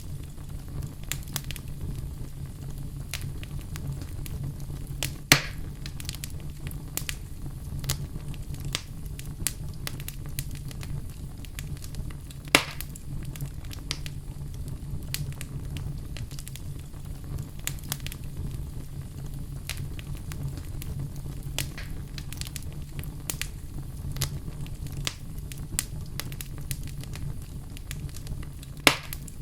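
Wood fire crackling, with a steady low rumble of flames under frequent sharp crackles and three louder pops.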